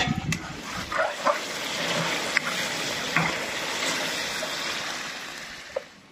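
Chicken pieces sizzling and bubbling in hot oil in an iron karahi over a fire, a steady hiss with a few clinks of the steel ladle against the pan. The hiss drops away near the end.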